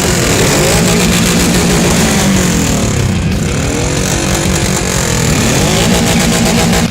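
Motorcycle engines running loud, their pitch rising and falling again and again as they rev.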